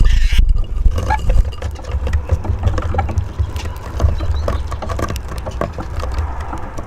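Eurasian siskins feeding at a bird house: a busy patter of small taps and pecks from beaks and feet, with a few short chirps, over a steady low rumble.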